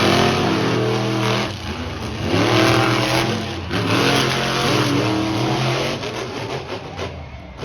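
Monster truck engines at full throttle in a straight-line race, their pitch climbing in repeated rising sweeps, fading away near the end.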